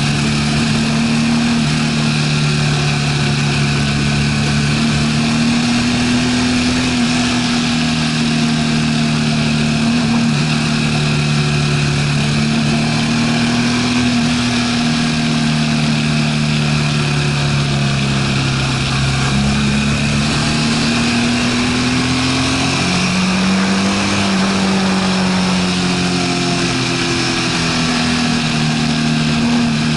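A BMW R1200RT's flat-twin engine running under way, its note rising and falling repeatedly as the throttle is worked through a run of bends. Heavy wind and road noise from the low side-mounted camera runs under it.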